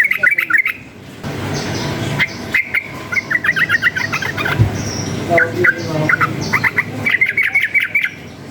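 Yellow-vented bulbul (trucukan) singing in rapid chattering runs of short notes, several phrases with short gaps between them, over a steady low background rumble.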